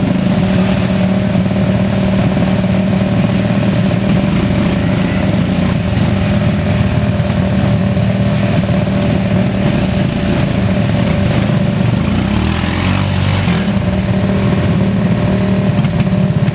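A motor vehicle engine running steadily at an even speed, with a brief change in its note about twelve seconds in.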